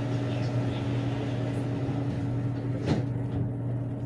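Steady low hum inside a BTS Skytrain car standing at a station, with a single sharp knock about three seconds in.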